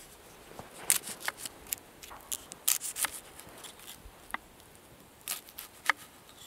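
Campfire crackling: irregular sharp pops and snaps, some closely bunched, over a quiet background.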